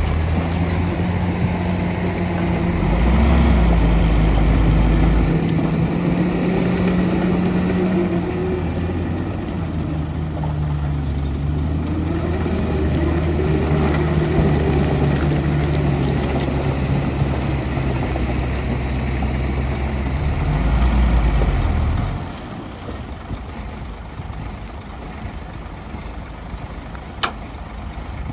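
Heavy diesel engine of earthmoving machinery running steadily with small rises and falls in pitch, then dropping suddenly to a much quieter running sound about three quarters of the way through. A single sharp click near the end.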